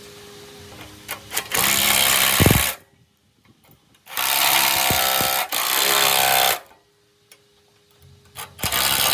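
A workshop tool or machine runs in three loud bursts of about one and a half to two and a half seconds each, with near silence between them. A few knocks come just before the first burst.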